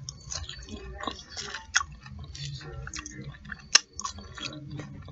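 Close-up chewing of fried fish nuggets and fries: irregular small clicks and crunches of the mouth and food, with one sharp click about three-quarters of the way through.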